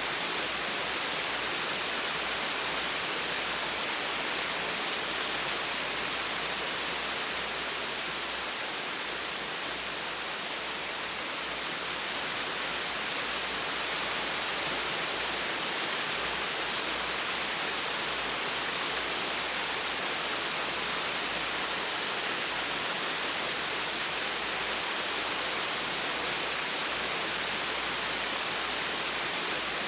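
Small waterfall: a steady, even rush of falling water, dipping slightly about a third of the way through.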